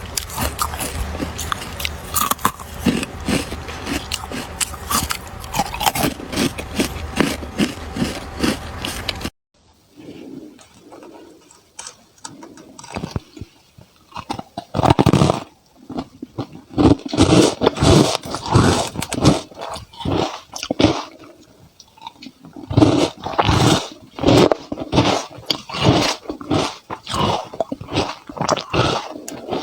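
Ice being bitten and chewed close to the microphone: a quick run of crunches for the first nine seconds, then a sudden cut to a quiet background. After that come scattered crunches and chewing that turn loud again about fifteen seconds in.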